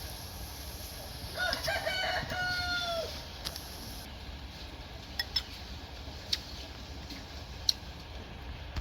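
A rooster crows once, beginning about a second and a half in and lasting under two seconds, ending on a falling note. A few short sharp clicks follow in the second half.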